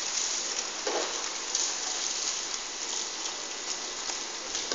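Steady rainfall, an even hiss of rain on hard surfaces with a few louder splashes.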